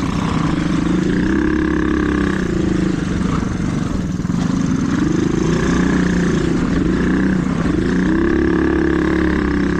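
Mini dirt bike engine being ridden along a trail, its pitch rising and falling again and again as the throttle is opened and shut.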